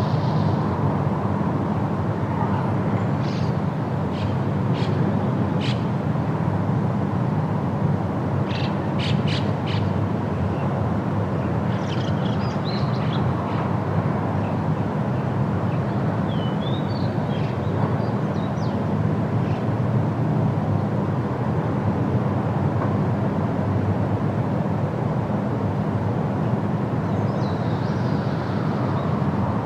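Steady low ambient rumble, like distant traffic, with a few short high ticks and some brief bird chirps in the middle.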